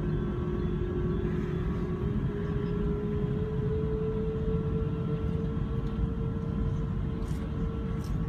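Jet engines of a British Airways Airbus A380 (Rolls-Royce Trent 900s) running with a steady, deep rumble. A whine over the rumble climbs slightly in pitch during the first half, then holds steady.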